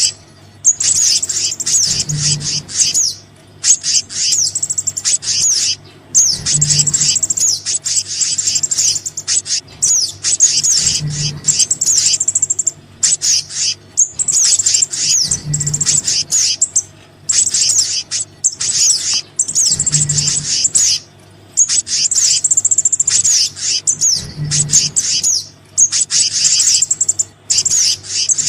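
Bird lure (pikat) recording for small birds, combining sogon and black-naped monarch (kehicap) calls: rapid high twittering chirps in phrases of one to three seconds with short breaks, repeating as a loop. A low hum pulses about every four and a half seconds.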